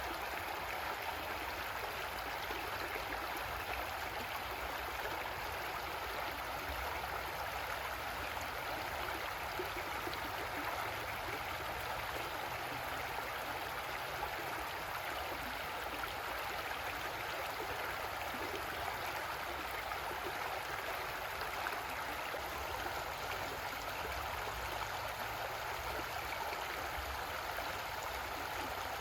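Creek water flowing and burbling over rocks, a steady, even rushing.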